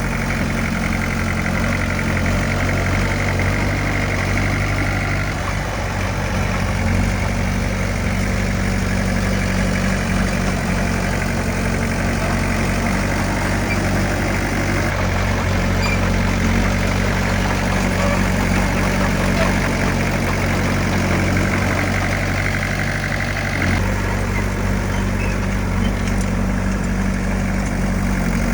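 Heavy diesel engine of earthmoving machinery running steadily, with a slight change in engine note near the end.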